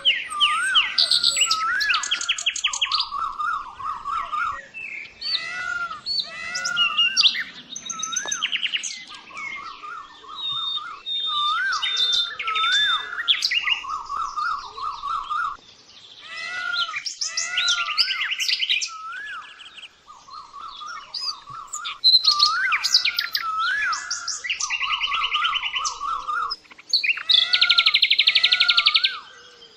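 Songbirds chirping and trilling continuously, a mix of quick rising chirps, buzzy rattles and fast high trills, with similar phrases coming round again every few seconds.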